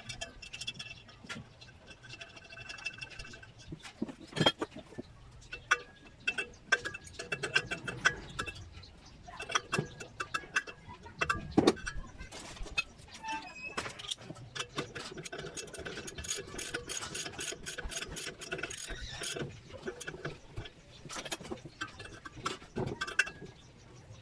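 Irregular knocks, taps and clicks of hand work on sheet-metal oven vent parts, some strikes leaving a short metallic ring. The clicks come thickest about two-thirds of the way through.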